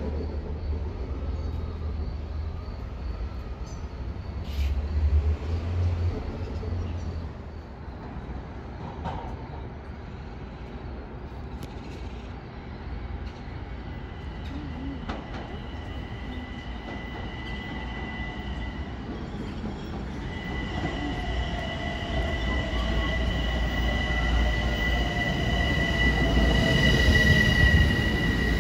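Long Island Rail Road electric train pulling into the station: a growing rumble with a steady high wheel squeal and a falling motor whine as it slows, loudest near the end. A low engine rumble from a bus idling above the platform is heard during the first several seconds.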